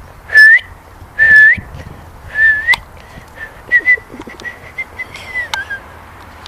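Three loud, clear whistled notes, each flicking upward at the end, about a second apart, then a run of softer quick chirps at the same pitch.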